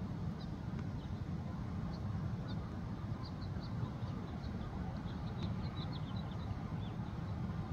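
Small birds chirping in short high notes, scattered through and thickest in the middle, over a steady low rumble.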